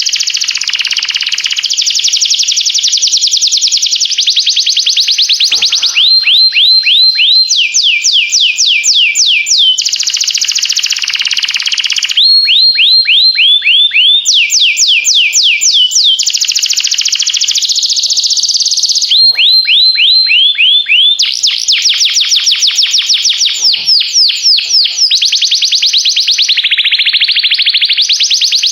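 Domestic canary singing a long, continuous song: runs of quick downward-sweeping whistled notes, about five or six a second, alternating with fast buzzy rolls and trills.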